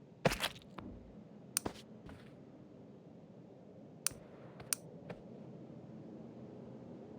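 A series of short, sharp clicks and knocks at irregular intervals, the loudest in a cluster near the start, with a few more around two and four to five seconds in.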